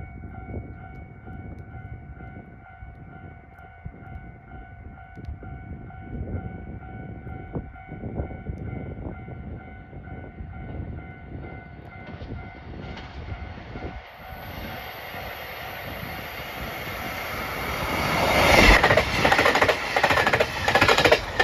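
A train passing through the station: quiet at first with a steady multi-tone ringing, then a rising rush of wheels on rail that grows over the last several seconds into a loud close pass with rapid clickety-clack.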